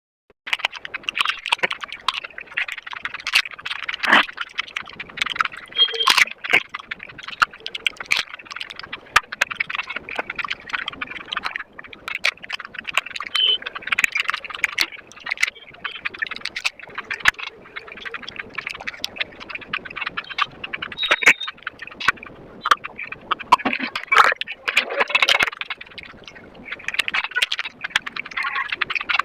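Close-miked eating of dahi puri, sped up several times: a dense, rapid stream of crunching and chewing clicks from the crisp puri shells and their filling.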